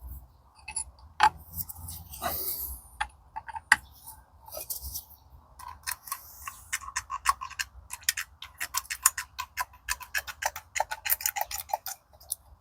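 Small metal gearbox parts clicking and rattling as they are handled, with a short scrape about two seconds in and a run of quick irregular clicks through the second half.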